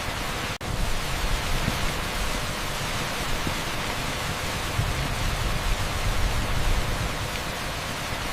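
Torrential rain pouring down on a street: a dense, steady hiss like pink noise, with a split-second dropout about half a second in.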